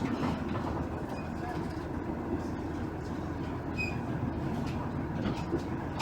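Interior running sound of a JR East KiHa 110 series diesel railcar under way: a steady rumble of the diesel engine and the wheels on the rails.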